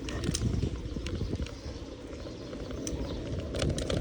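Riding noise from a moving bicycle: a steady low rumble of tyres and wind on the microphone, with scattered light clicks and rattles.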